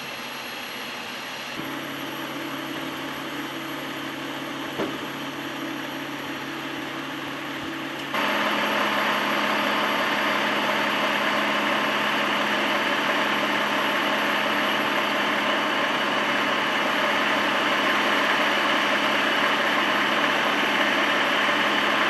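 A large engine runs steadily with a low hum. It gets a little louder early on, then jumps sharply louder about eight seconds in and stays there. A single click comes near five seconds.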